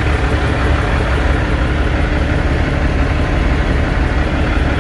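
Kenworth T660's Cummins ISX inline-six diesel idling steadily through its low-mounted 'grass burner' exhaust, with a deep, even rumble.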